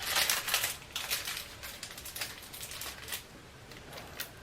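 Plastic packaging crinkling and rustling as it is handled. It is loudest in the first second, then fades to a few light clicks and rustles.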